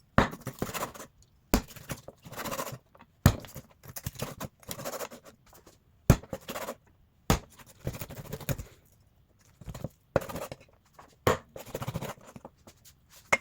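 Knife chopping through bone-in chicken thighs on a cutting board: about five sharp chops at irregular intervals, with scraping and handling of the meat between them.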